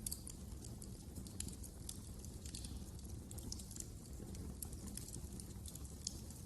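Wood fire crackling in a fireplace: frequent, irregular sharp snaps and pops over a steady low rumble of the flames.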